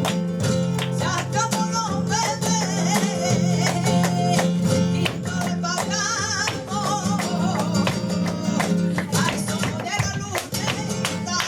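Live flamenco tangos: flamenco guitar with a singer's wavering, ornamented vocal line, and sharp percussive strikes throughout.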